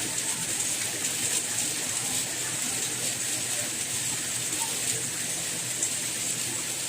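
Steady rain, an even hiss with a bright high band and scattered soft patters of drops.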